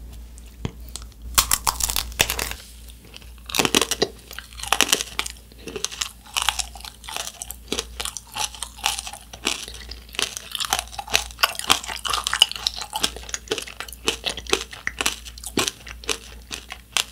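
A person biting and chewing a macaron tanghulu, a macaron coated in a thin shell of hardened sugar syrup, the brittle candy cracking in sharp, irregular crunches. The crunches come in small clusters at first and grow denser about six seconds in.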